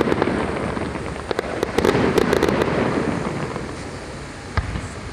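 Aerial fireworks crackling densely, the crackle thinning and fading over the last couple of seconds, with one sharp bang near the end.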